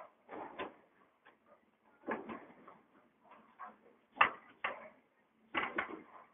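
Irregular bursts of clattering knocks, several short clusters a second or two apart, the loudest about four seconds in.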